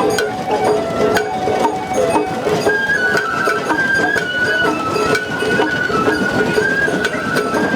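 Sawara-bayashi festival music from a float: a high bamboo flute melody, held in long stepped notes, over a steady beat of drums and struck metal.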